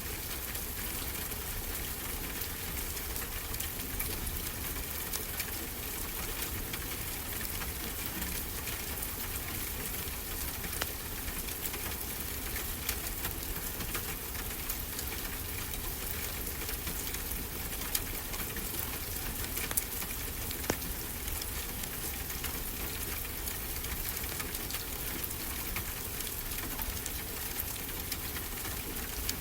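Fireplace crackling, with scattered sharp pops over a steady hiss of ocean waves.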